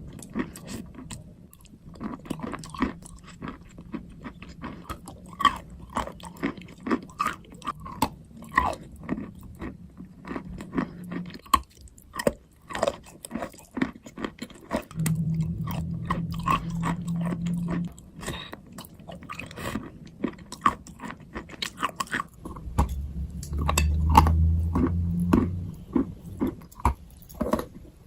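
Close-miked biting and chewing of dry chalk or clay: many sharp, irregular crunches. A low hum comes in twice, once midway and again near the end.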